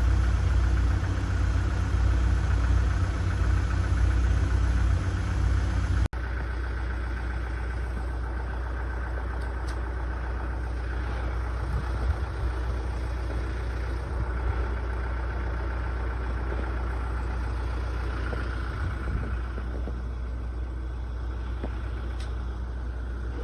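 An engine running steadily with a low rumble; about six seconds in there is an abrupt cut, and it carries on a little quieter.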